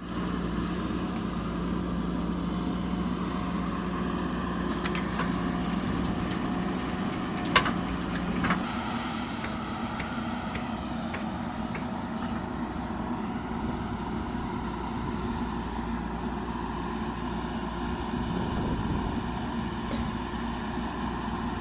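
Heavy machinery engine running steadily, with a sharp knock about seven and a half seconds in and another a second later, when a steady hum in the engine note stops.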